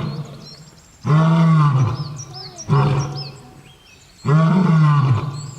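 Lion roaring in a bout: three loud calls of about a second each, each sliding down in pitch, with faint high chirps between them.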